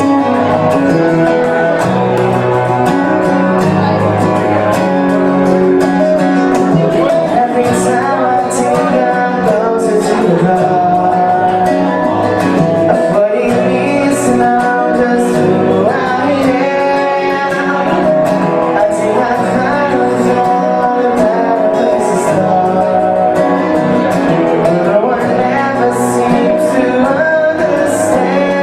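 A song: a male voice singing over guitar accompaniment with a steady strummed beat.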